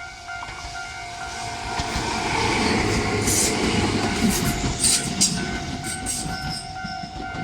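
A railway crossing alarm rings steadily as a Tobu 10000 series electric train arrives past the crossing. The train's rumble swells from about two seconds in, with sharp high squeals and clacks from the wheels in the middle.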